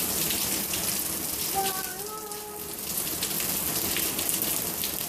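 Heavy rain falling and spattering on hard surfaces, a dense steady hiss of drops. A faint distant voice calls out briefly about two seconds in.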